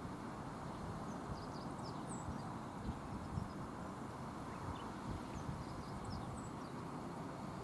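Steady outdoor rushing noise with wind buffeting the microphone. Two brief clusters of faint, high chirps from a small bird come about a second in and again about five seconds in.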